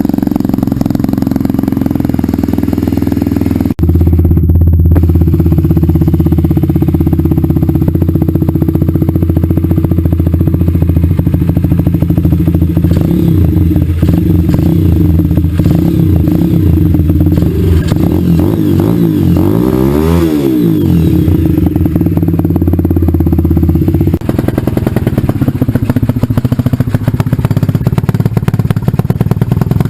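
Honda Dax minibike's single-cylinder four-stroke engine running through an aftermarket NHRC exhaust at a steady pitch. It steps up to a higher, louder pitch about four seconds in, holds there, and drops back about twenty-four seconds in.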